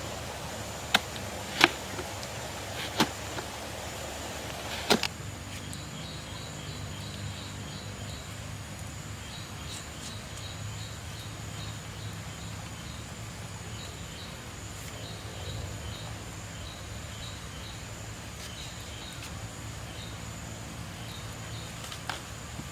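Four sharp knocks over the first five seconds, then a short high chirp repeating about twice a second over a steady low hum.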